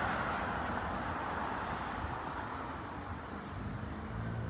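Steady rushing road-traffic noise that slowly fades, with the low hum of a Class 150 diesel multiple unit's underfloor diesel engines growing near the end as the train approaches.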